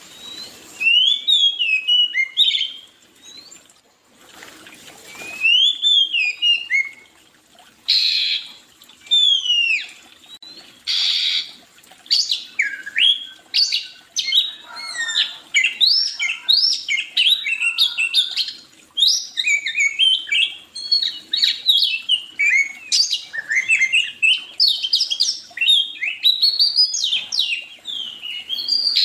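Songbirds chirping and whistling in quick rising and falling notes, only a few calls at first, then a dense chorus of many overlapping chirps from about twelve seconds in. A few short hissing bursts come in between the early calls.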